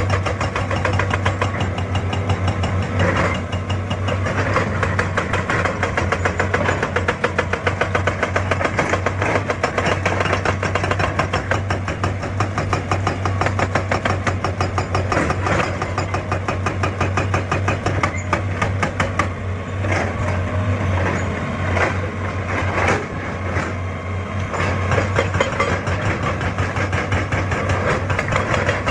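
Excavator's diesel engine running steadily with a fast, even beat, with a few sharp knocks scattered through.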